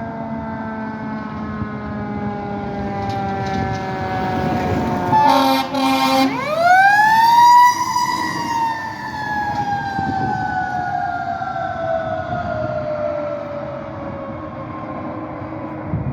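Fire truck's siren and air horn: a falling siren tone, then two short air-horn blasts about five seconds in, then the siren winds sharply up and slowly coasts down. Truck engine and road noise run underneath.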